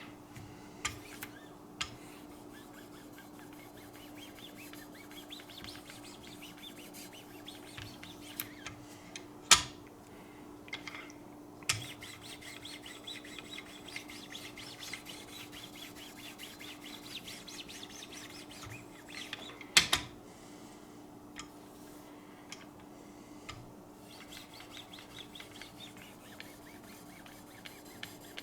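Lapping-film hones of a Wicked Edge sharpening system being stroked along a knife edge: runs of light, quick rubbing strokes, with two sharp knocks about ten seconds apart.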